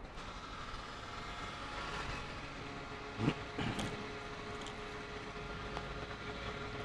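Yamaha Road Star XV1600 motorcycle's V-twin engine running on the road, with a steady tone coming in about four seconds in. Two short, louder sounds come about three seconds in.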